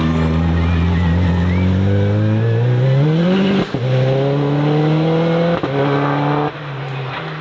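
Hillclimb race car accelerating hard, its engine pitch climbing, with quick upshifts about three and a half and five and a half seconds in; near the end it drops back to a lower, quieter note.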